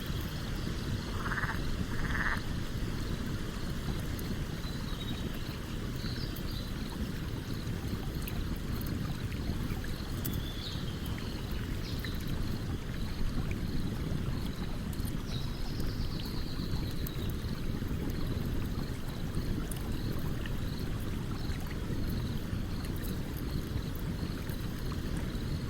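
A stream running with a steady low rush, the loudest sound, while a campfire crackles with scattered faint pops. A few faint high chirps come and go.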